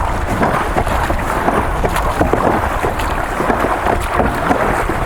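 River water rushing and splashing around a heavy raft in a shallow riffle, with wind buffeting the microphone.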